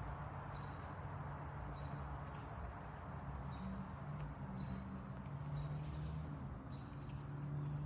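A steady low drone that shifts up in pitch in the middle and then back, over a hiss, with faint short high chirps at intervals.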